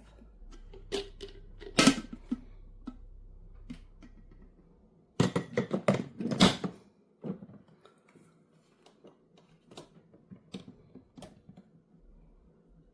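Clicks and knocks of a drip coffee maker being handled: one loud knock about two seconds in, a dense run of clatter from about five to seven seconds in, then scattered lighter clicks.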